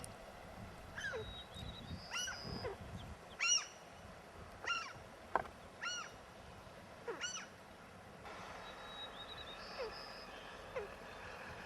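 Willow ptarmigan calling: a series of short, arched, croaking calls at about one a second. The calls are fainter in the last few seconds.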